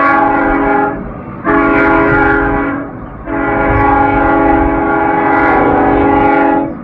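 Locomotive air horn on a Union Pacific GE C45ACCTE sounding a chord: a blast that ends about a second in, a short blast, then a long blast, over the low rumble of the passing train. The long-short-long ending fits the close of a grade-crossing horn signal.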